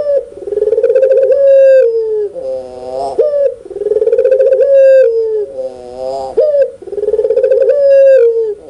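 Puter pelung (Barbary dove) giving its loud 'laughing' call, repeated about three times: each phrase is a fast rolling, stuttering coo followed by a long held coo, with a short sharp note between phrases.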